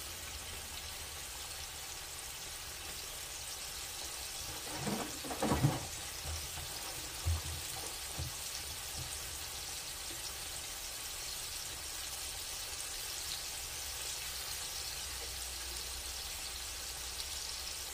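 Flour-dredged pork neck bones frying in hot grease in a skillet: a steady sizzle. A few brief handling noises come over it around five to eight seconds in.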